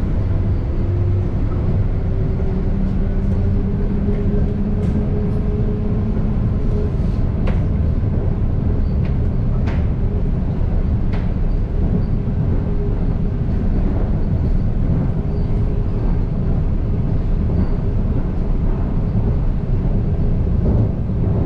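Airport people-mover tram running along its guideway, heard from inside the car: a steady rumble with a motor whine that rises slightly in pitch over the first few seconds, then holds. A few sharp clicks come in the middle.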